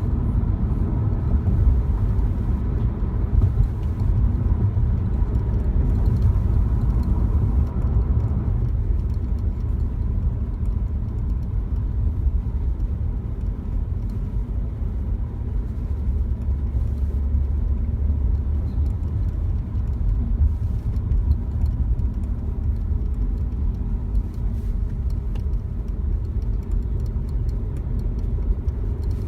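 BMW F30 3 Series running, a steady low rumble with a faint high whine that fades out about eight seconds in.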